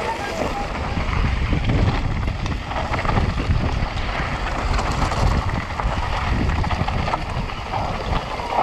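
Wind rushing over the microphone with the rattle and tyre noise of a mountain bike descending rough ground at speed: a steady loud rush dotted with many small clattering knocks.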